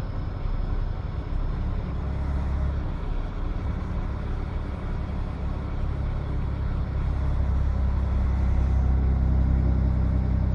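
Freightliner Columbia semi truck's diesel engine running under way, heard inside the cab as a steady low drone that grows louder about seven seconds in.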